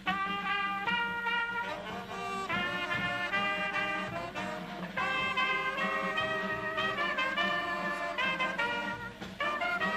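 Brass band playing a slow piece of held notes that step from one pitch to the next, the music cutting in suddenly.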